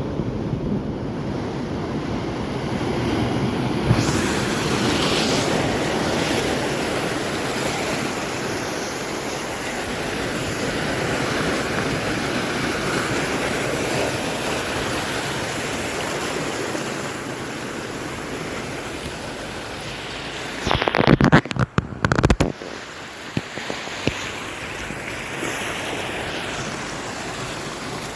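Large ocean swell waves surging and washing on the shore, a steady rush of surf with wind on the microphone. About three-quarters of the way through comes a brief burst of loud crackling thumps.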